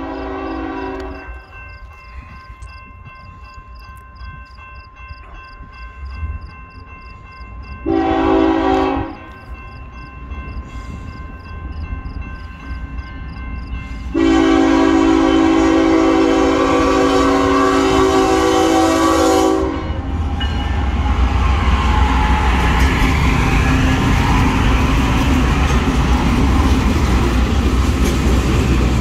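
A diesel locomotive's multi-chime air horn blows for the grade crossing: a long note ending about a second in, a short blast about eight seconds in, then a long blast lasting about five seconds, while a crossing bell rings faintly. From about twenty seconds the BNSF ES44C4 and a Union Pacific AC44CW pass close by, their diesel engines running with steel wheels clattering over the rails.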